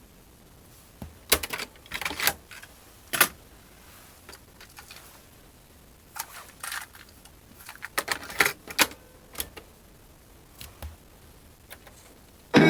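Plastic clicks and clunks of a boombox's cassette deck being loaded and its buttons pressed: a few sharp clicks about a second in, another group around the middle, then lighter ticks.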